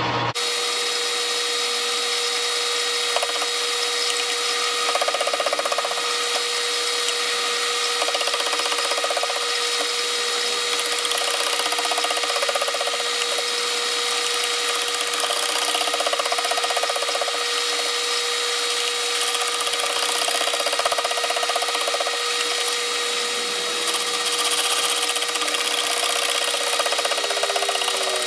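Metal lathe running with a steady whine as a cutting tool works the brazed-up mower spindle housing, the cutting noise rising and falling over the pass.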